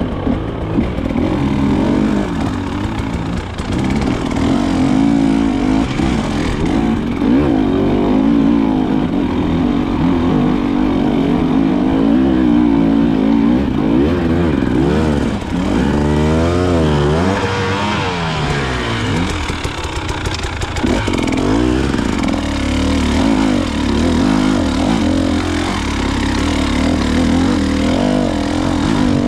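KTM 300 XC-W dirt bike's single-cylinder two-stroke engine running under riding load, its pitch rising and falling as the throttle is worked, with a run of quick revs up and down about halfway through.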